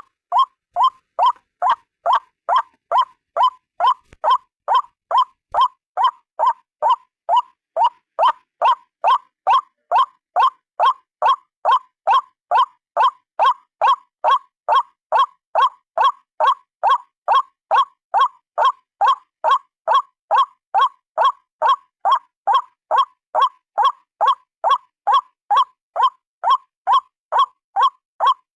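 White-breasted waterhen (ruak-ruak) call, a single bird's note repeated evenly about twice a second at the same pitch and loudness: a looped bird-lure recording.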